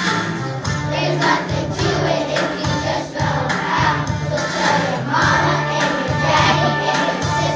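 A group of young children singing a song together over an instrumental accompaniment with a moving bass line.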